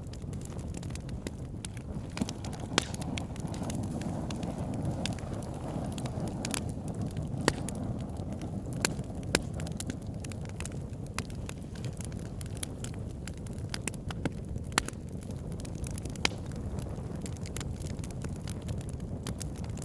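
Wood fire burning with a steady low rush, full of constant small crackles and snaps and a handful of louder pops.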